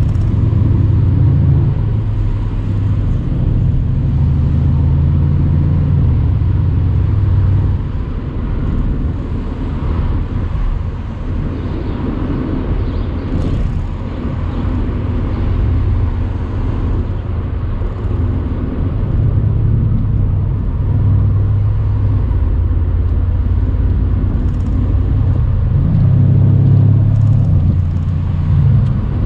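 Mercedes-AMG C63's twin-turbo V8 under way in a moving car, its note rising and falling with the throttle: a strong pull for the first several seconds, easing off about eight seconds in, then building again and loudest near the end.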